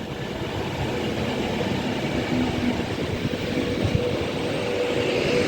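Avanti West Coast Class 390 Pendolino electric train running on the track, a steady rumble that grows a little louder toward the end, with a humming tone coming in near the end.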